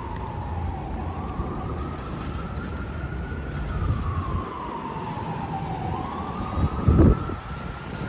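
Emergency vehicle siren in a slow wail, its pitch sweeping down and up twice, over steady low street-traffic rumble. A brief loud low rumble cuts in about seven seconds in.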